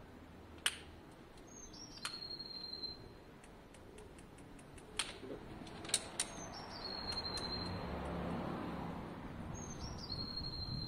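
A bird calls three times about four seconds apart, each call a quick downward slide into a short held high note. A few sharp clicks fall between the calls, and a soft rushing noise swells for a few seconds in the second half.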